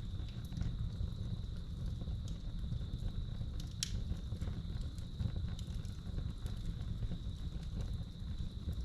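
Wood fire crackling in a fireplace, with scattered pops (one sharper pop about four seconds in) over a steady low rumble, while crickets trill in one unbroken high tone.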